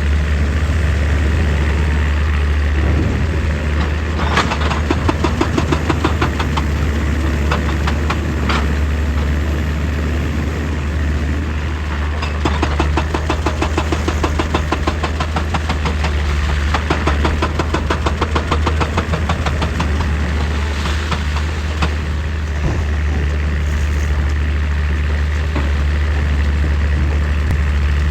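Excavator's diesel engine running steadily, with several spells of fast, rattling knocks as the machine works rock.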